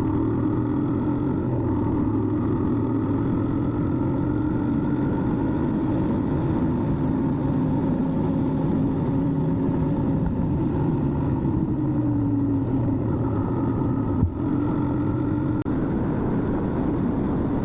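Yamaha R15 motorcycle's single-cylinder engine running at a steady cruise, its pitch drifting gently up and down. There is one brief knock about fourteen seconds in.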